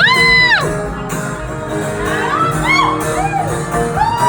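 Concert crowd whooping and cheering: one long high squeal at the start, then several shorter whoops, over sustained guitar chords from the live band.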